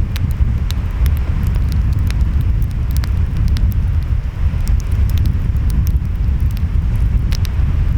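Wood fire crackling, with scattered sharp pops, over a steady low rumble of ocean waves and wind.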